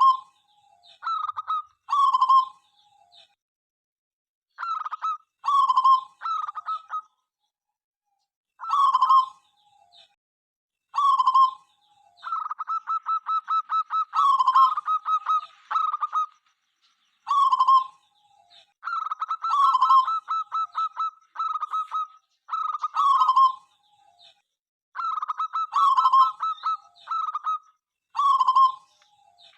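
Zebra dove (local perkutut) cooing in repeated short phrases every couple of seconds, each falling at the end into a lower held note, with longer runs of rapid staccato notes around the middle.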